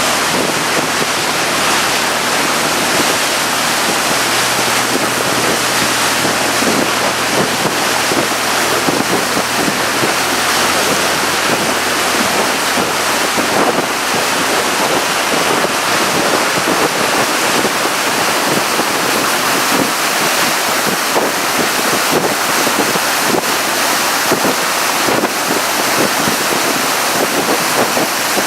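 Motorboat under way on a lake: wind buffeting the microphone over the steady rush of water past the hull, with a low engine hum underneath in the first several seconds.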